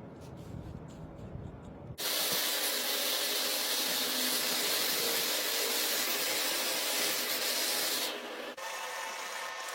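A loud, steady hiss starts abruptly about two seconds in, then drops to a quieter, thinner hiss with a faint steady whine about eight seconds in.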